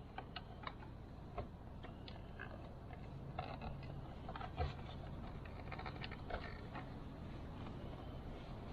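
Irregular light clicks and taps of hand tools being worked on the motorcycle while loosening a stuck oil filter, with a sharper knock about halfway through.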